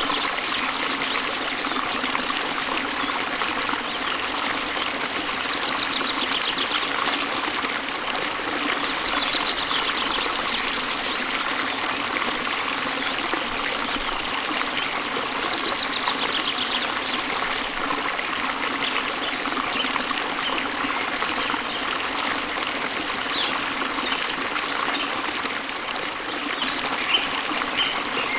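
Waterfall water rushing and splashing in a steady, unbroken flow, with faint bird chirps now and then.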